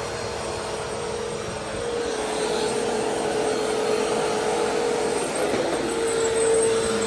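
Vacuum cleaner running steadily: a constant motor hum over the rush of air, a little louder from about two seconds in.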